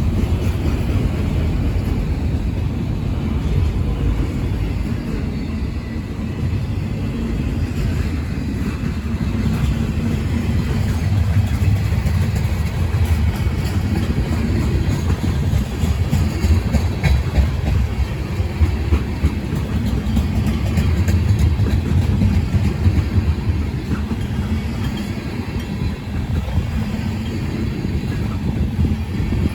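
A CSX freight train rolling past with a steady low rumble and faint clicking from the wheels.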